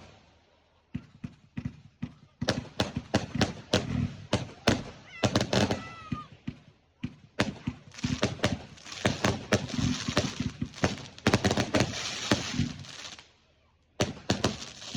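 Fireworks going off in a rapid string of sharp bangs and cracks, with a dense crackling stretch about eight to thirteen seconds in. A short falling whistle comes about five seconds in.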